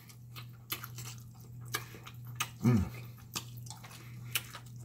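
Close-miked wet chewing and lip-smacking: a man eating baked pig feet, with many short clicks and smacks. Partway through comes a short hummed "mm" that falls in pitch.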